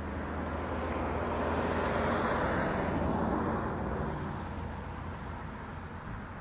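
Motor vehicle running: a low steady engine hum with a rush of noise that swells about two seconds in and fades after about four seconds.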